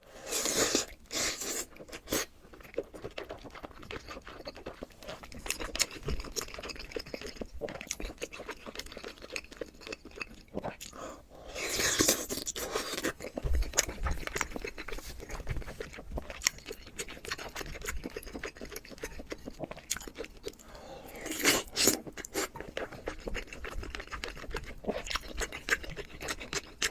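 Close-miked eating: crunchy bites and chewing go on throughout, with louder bursts of crunching about a second in, around the middle and again about two-thirds of the way through.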